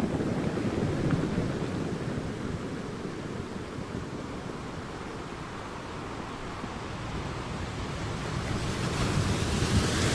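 Ocean waves breaking on a shore: one surge of surf at the start fades, and a second wave builds and breaks near the end.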